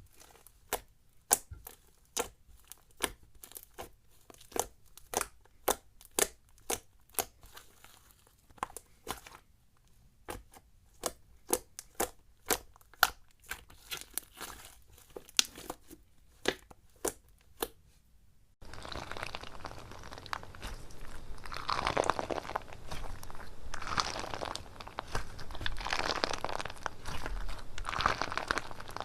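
Slime being handled by hands. The first two-thirds is a run of sharp, crisp clicks at about two a second. This stops suddenly and gives way to a steady crinkly crunching that swells every couple of seconds, as a crunchy slime is squeezed and worked.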